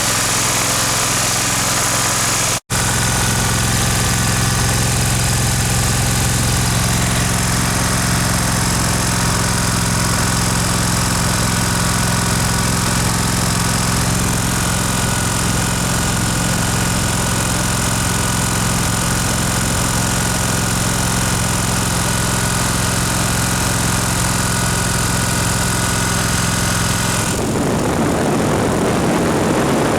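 Kohler twin-cylinder mower engine idling steadily, running on both cylinders on its new coils and spark plugs. The sound cuts out for an instant about three seconds in. Near the end the steady engine note gives way to a rougher rushing noise.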